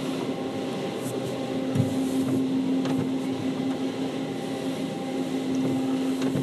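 Automated car wash machinery heard from inside the car's cabin: a steady mechanical hum with one constant low drone and a wash of noise, broken by a few faint knocks.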